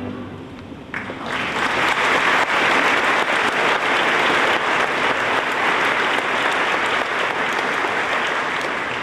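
Audience applauding after a musical piece ends: the clapping rises about a second in, stays full, and dies down near the end.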